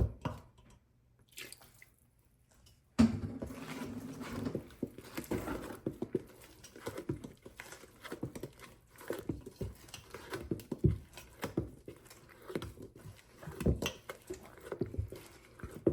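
Spoon or spatula folding banana bread batter in a mixing bowl: irregular soft knocks and wet scraping against the bowl. The sound drops out for about two seconds near the start.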